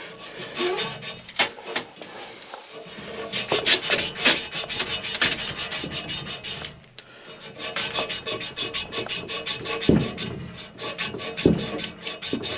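Rapid back-and-forth scraping strokes of abrasive cloth on copper pipe, cleaning the pipe for soldering, with a brief pause about seven seconds in.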